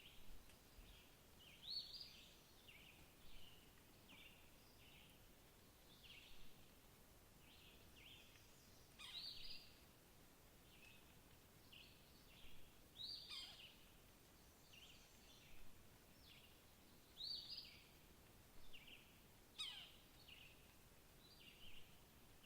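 Faint birds calling against a quiet background: a steady run of short, high chirps, with a few sharp calls that sweep steeply down in pitch, three times.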